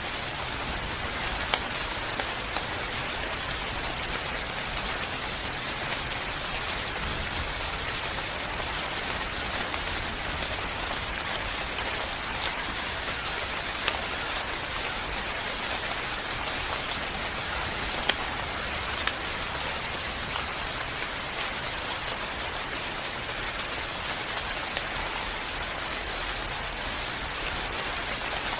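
Steady rain falling on a surface, an even hiss with occasional louder individual drops standing out.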